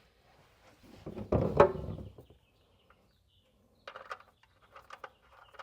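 Handling noise under the truck at the oil drain plug: a brief, loud squeaky rattle about a second in, then a few scattered light clicks and taps near the end.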